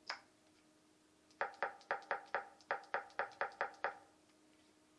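One sharp click, then a quick, even run of about a dozen light taps, about five a second, over a faint steady hum: fingers typing a song search on a tablet's on-screen keyboard, with key-click sounds.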